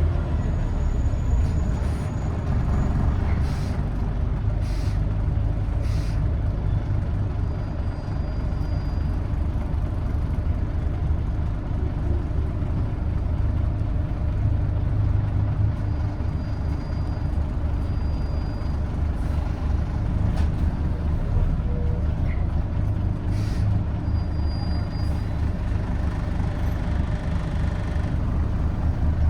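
Onboard a Scania N94UD Omnidekka double-decker bus on the move: its nine-litre five-cylinder diesel engine drones steadily under the road noise, with a few short clicks and rattles, several near the start and one more about 23 seconds in.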